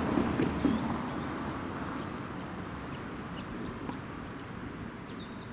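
Steam-hauled train running away into the distance, its rumble fading steadily, with a few sharp clicks in the first second and faint bird chirps near the end.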